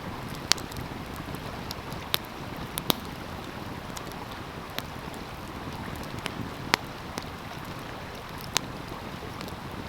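Wood fire crackling, with scattered sharp pops every second or so, over the steady rush of a flowing stream.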